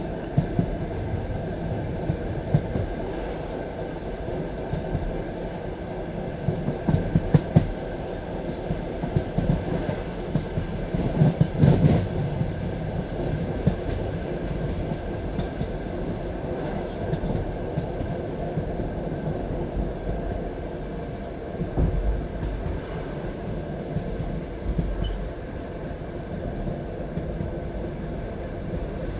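Passenger train carriage rolling along the track: a steady low rumble broken by clusters of wheel knocks over rail joints, loudest a little before the middle and again about three quarters of the way through.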